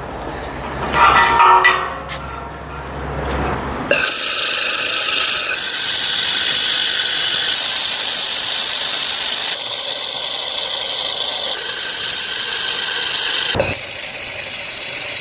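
Electric arc welding on the steel frame of a hydraulic log splitter: a loud, steady hiss that starts about four seconds in, changing level abruptly every couple of seconds as one weld pass gives way to the next.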